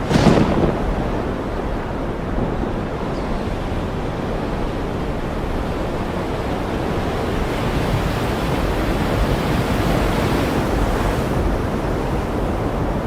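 Ocean waves washing in, a steady rushing noise with a sudden louder crash right at the start and a slow swell in the hiss after the middle.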